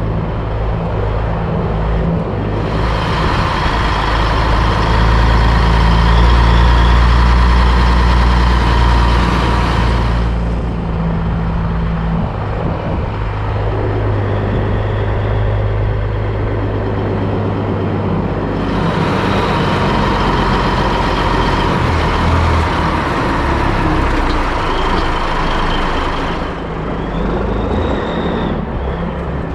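Heavy diesel engine running steadily. Twice it is joined by a long hissing whine lasting about eight seconds, once near the start and once past the middle.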